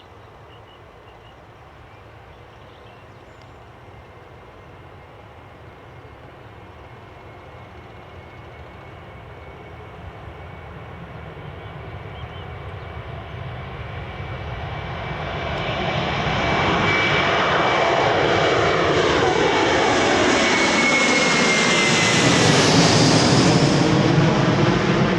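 Airbus A330-223's twin Rolls-Royce Trent 700 turbofans at takeoff thrust on the takeoff run. The engines grow steadily louder for about two-thirds of the time, then hold loud, with a high whine that falls slightly in pitch near the end as the jet goes by.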